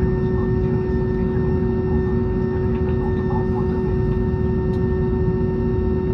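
Steady cabin drone inside an Airbus A320neo taxiing on one engine: a low rumble with a strong steady hum and a few fainter higher steady tones.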